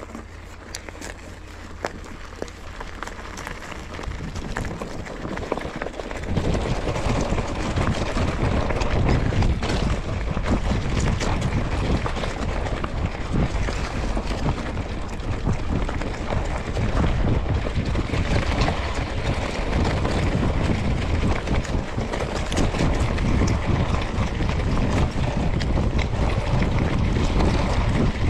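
Mountain bike riding down a gravel forest road: wind buffeting the microphone over tyre crunch and frame rattle, getting much louder about six seconds in.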